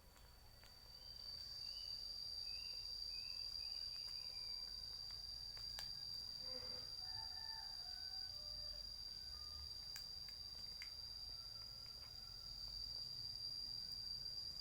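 Faint outdoor insect drone: one steady high-pitched note that swells in about a second in and holds. A few faint bird chirps come near the start, and a short lower call comes about six seconds in.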